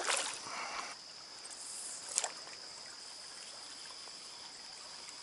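Small trout stream running steadily. There is some brief splashing and handling noise in the first second and a single sharp click about two seconds in.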